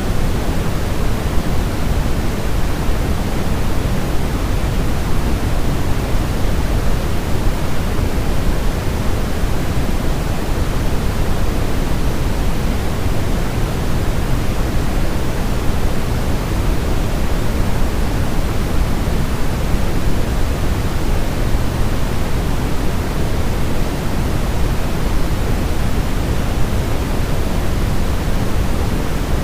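Steady, unchanging white noise played as a baby sleep aid, a constant hiss weighted toward the low end with no breaks or changes.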